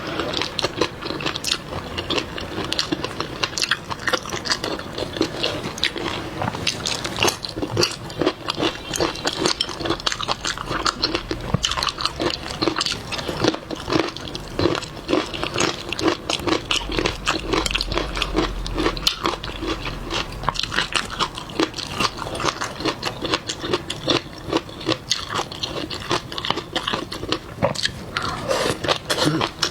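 Close-miked chewing and biting of seafood: a steady stream of irregular crunches and wet mouth clicks.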